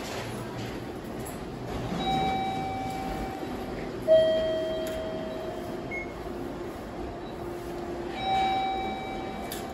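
Railway station sounds: a train moving slowly, with a steady rumble. Over it sound several steady electronic tones. The first comes about two seconds in. The loudest starts abruptly about four seconds in and fades over a second or so. Another comes near the end.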